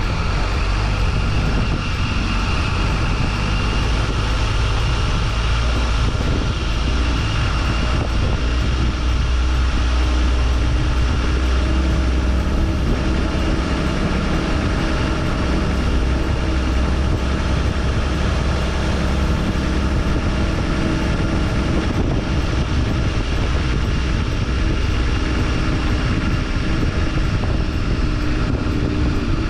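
Four-wheel drive's engine running steadily at low speed on a dirt track, a deep continuous rumble with wind noise on the microphone.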